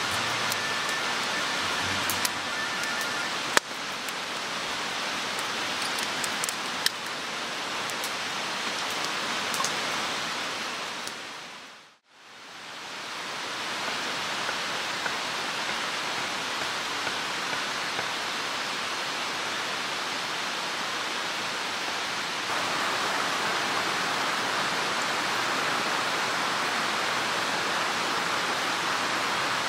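Steady rush of a mountain stream's flowing water. It fades out about twelve seconds in, then fades back up and grows a little louder later on.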